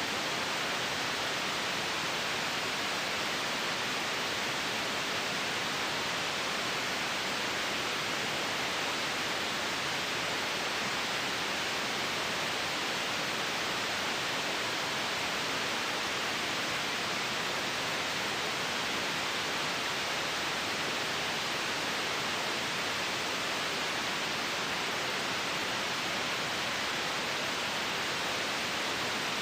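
Steady white noise: an even, unchanging hiss with no breaks or changes in level.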